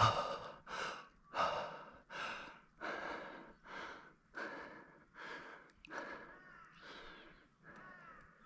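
Fast, heavy breathing of an angler fighting a fish, an even run of puffs about one and a half a second, getting softer toward the end.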